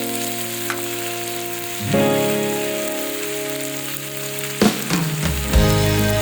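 Meat sizzling as it grills over a campfire, a steady frying hiss, under background music whose chords change about two seconds in and again near the end.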